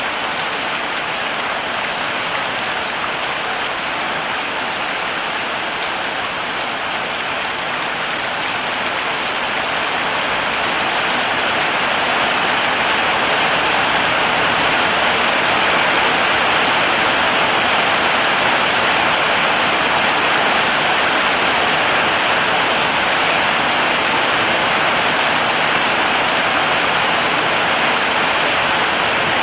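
Heavy rain falling steadily as a dense hiss, growing somewhat heavier about a third of the way in.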